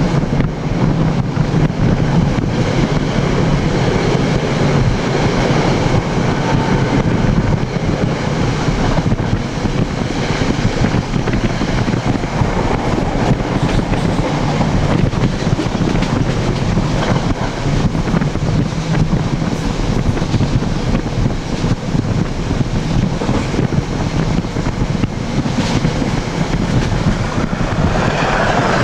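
NJ Transit commuter train running at speed, heard from the vestibule between cars at an open window: a steady, loud rumble of wheels on rails mixed with rushing air.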